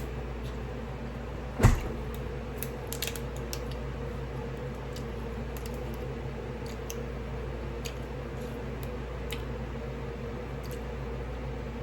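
A spoon clicking and tapping against a bowl during eating, with one louder knock about two seconds in and faint light clicks scattered after it, over a steady low hum.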